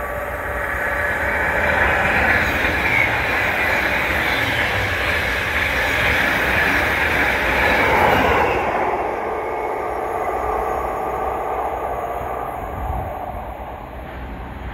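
A train passing on the main line. The rush of its wheels on the rails builds over the first couple of seconds, holds loud, then drops away after about eight seconds and fades toward the end.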